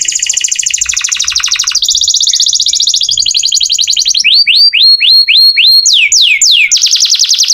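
Domestic canary in full song: unbroken rolls of very fast repeated notes. About four seconds in it switches to a run of quick downward-sliding whistles, then ends on another rapid trill.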